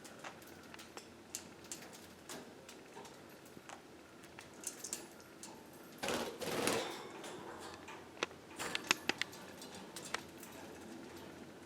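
Budgerigars pecking and tapping inside a coconut-shell hut: a scatter of small sharp taps and clicks. There is a short louder rustling burst about six seconds in and a quick run of sharp taps near nine seconds.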